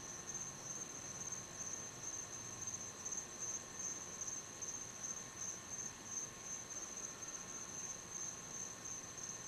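A steady outdoor chorus of insects: one continuous high-pitched trill with a slight pulsing.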